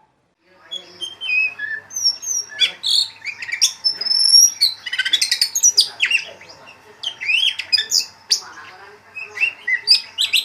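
Birdsong: a busy, varied string of short chirps, whistles and quick rising and falling notes, starting about half a second in.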